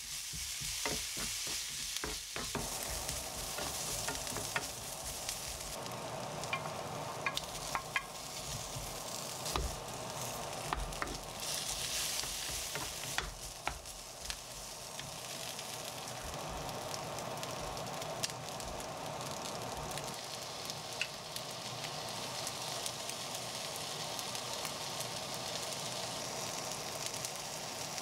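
Sliced onions and then fried rice ingredients sizzling in a nonstick frying pan while a wooden spatula stirs and scrapes them, with scattered light clicks of the spatula against the pan. The sizzle grows louder for a couple of seconds near the middle.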